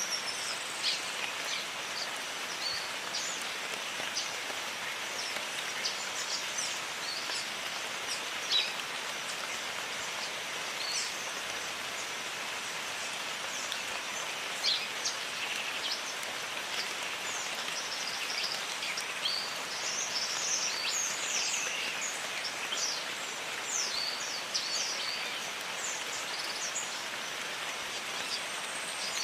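Steady rain falling, with birds chirping over it in many short, quick calls that are busiest about two-thirds of the way through.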